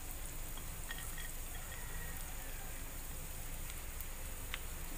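Steady sizzle of oil frying chopped garlic, onions and crumbled burger patty in a nonstick frying pan, with a couple of faint clicks.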